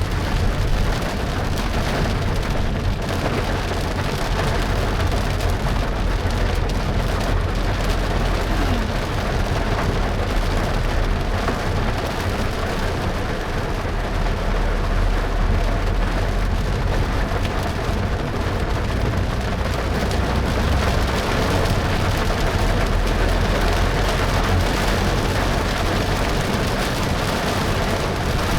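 Heavy rain on a moving car, an even hiss of rain and wet road over a steady low rumble of tyres and engine.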